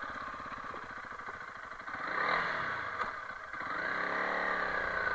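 Honda CRF300L Rally's single-cylinder four-stroke engine running while riding. The revs rise about two seconds in and drop back, then rise and fall again near the end.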